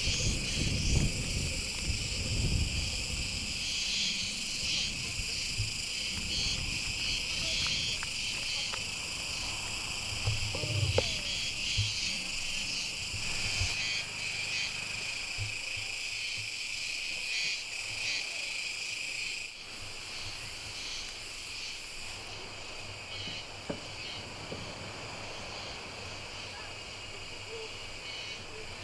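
Steady high-pitched chirring of an insect chorus, crickets or similar, with low rumble and a few knocks under it in the first half that fall away partway through.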